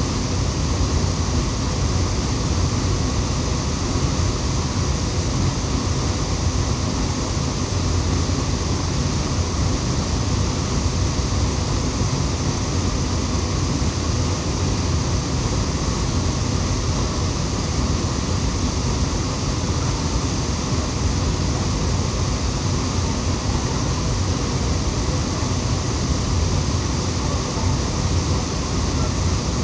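Waterfall: a constant rush of falling water, with most of its weight in the low end.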